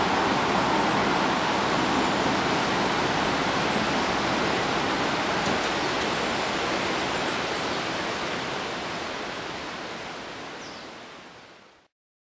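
Rumble of an electric train running away into a tunnel, a steady rushing noise that slowly fades, then dies away to silence near the end.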